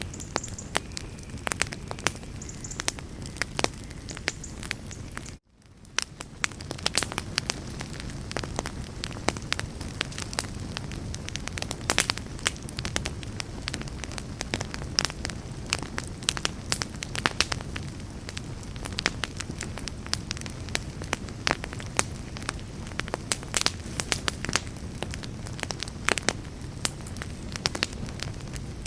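Campfire burning: a steady low rush of flames with frequent sharp crackles and pops from the burning wood. About five seconds in, the sound cuts out suddenly for a moment and fades back in.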